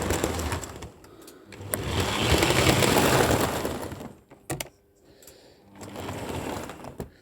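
Model train locomotives (model Class 67s hauling DVTs) running on the layout track: a small electric motor whirr and wheel rumble that swells and fades as the trains pass, loudest about two to four seconds in. A couple of sharp clicks come just past the middle.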